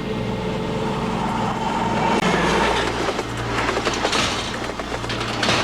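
A train running on the rails: a steady low engine hum under the noise of wheels on track, swelling louder about two seconds in and again around four seconds.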